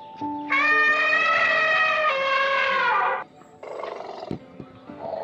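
Background music with a melody of steady notes. Over it, about half a second in, a loud drawn-out animal call of almost three seconds that cuts off abruptly.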